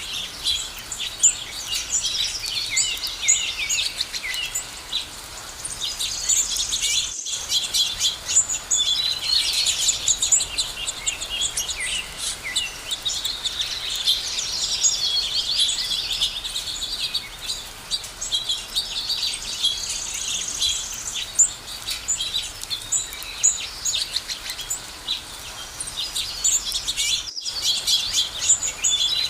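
A chorus of many small songbirds chirping and trilling at once, their calls densely overlapping. It breaks off twice for a split second, at about 7 s and near the end.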